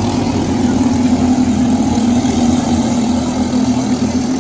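Briggs & Stratton LO206 single-cylinder four-stroke kart engine running at a steady, nearly constant pitch.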